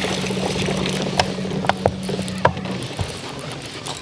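Fishing reel being cranked: a steady gear whir that stops about three seconds in, with a few light clicks.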